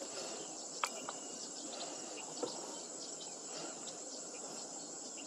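Steady high-pitched insect chorus from the marsh vegetation, with a couple of faint brief clicks.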